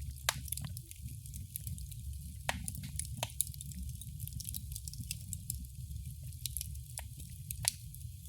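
Wood fire crackling in a fireplace: scattered sharp pops and snaps, a handful of them louder, over a steady low rumble of the burning fire.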